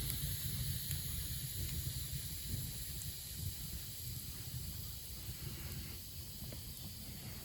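Wood fire burning in a traditional Korean firebox under a pot: a steady low rumble and hiss, with a few faint crackles.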